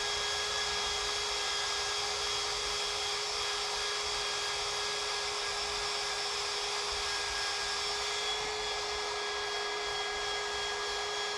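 Handheld electric power tool running continuously at a constant speed: a steady motor whine over a hiss.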